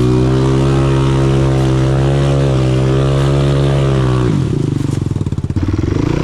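Enduro motorcycle's single-cylinder engine held at high revs, steady with slight wavering, for about four seconds, then dropping off the throttle to a low, lumpy putter near the end.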